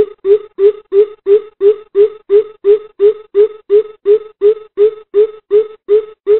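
Coucal calling: a long, even series of deep hooting notes, about three a second, the call used as a lure to draw coucals in for trapping.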